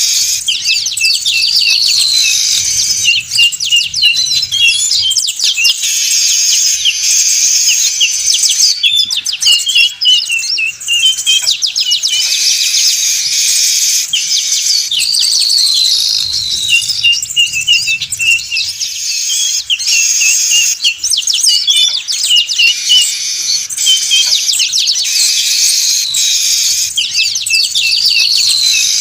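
Weaver birds (manyar) calling noisily in a dense, chattering chorus of buzzy calls and chirps, used as a bird-trapping lure. The same sequence, a falling whistle followed by a run of short notes, repeats about every twelve seconds, as in a looped recording.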